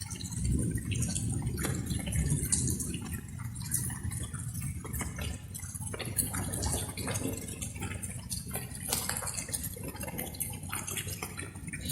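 Light rain dripping: irregular drops and splashes falling over a steady low rumble.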